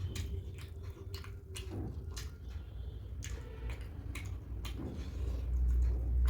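Close-miked wet chewing and irregular mouth clicks of someone eating soft poori with curry.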